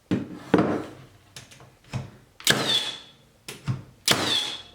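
Cordless Milwaukee M18 Fuel 15-gauge finish nailer firing twice, driving 2.5-inch nails into 2x4. Each shot is a sharp crack followed by a short high whine that falls away, with lighter knocks from the tool being handled and pressed to the wood in between.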